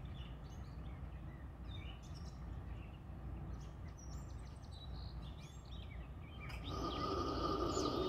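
Birds chirping over a low outdoor rumble. About six and a half seconds in, a louder, steady sound of an approaching freight train comes in, with held tones running through it.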